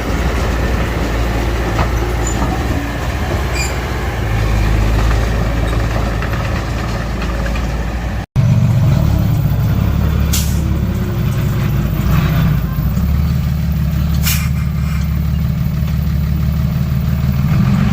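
Heavy diesel earthmoving machinery running steadily at work. The sound breaks off for an instant about eight seconds in, then a fuller engine drone resumes, with two short hisses a few seconds apart.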